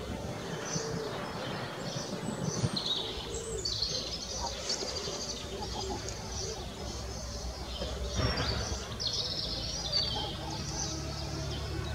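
Small birds chirping and calling again and again, over steady low background noise.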